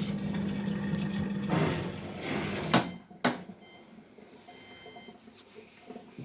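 Hotpoint washing machine's drain pump humming steadily, then stopping about three seconds in with two sharp clicks, followed by a few short electronic beeps and one longer beep from the machine as its steam hygiene cycle ends.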